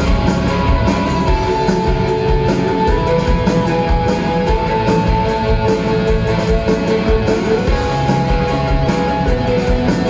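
Rock band playing an instrumental passage with no vocals: a slow held melody line rides over steady drums and bass.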